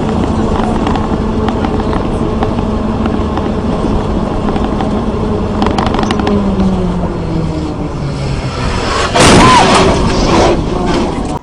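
A vehicle's engine running steadily under heavy road and wind noise, its pitch falling about six seconds in as it slows. About nine seconds in comes a sudden loud noisy burst lasting a second or so.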